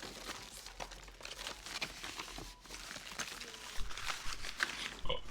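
Rustling and crinkling of a purse being rummaged through, papers and contents handled in quick irregular crackles.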